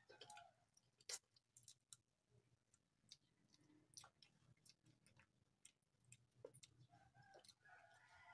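Near silence with faint eating sounds: scattered wet mouth clicks and chewing as food is eaten by hand. A faint animal call, like a chicken clucking, comes in near the end.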